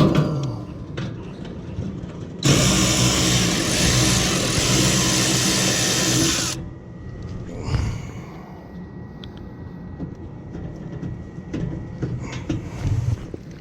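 Cordless power driver running for about four seconds and then stopping abruptly, backing a fastener out of the generator's back panel. Small clicks and handling noises come before and after it.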